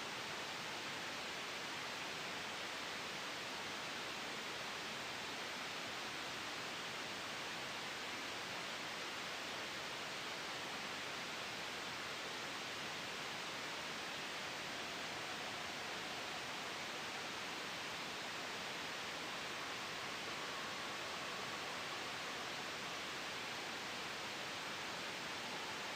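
Soft, steady white noise mixed with a gentle wind ambience: an even hiss, brightest in the upper range, with no rises, falls or breaks.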